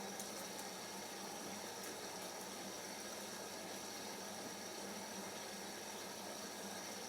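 Siemens iQ 1430 washing machine during its first rinse, water rushing steadily into the drum as it fills.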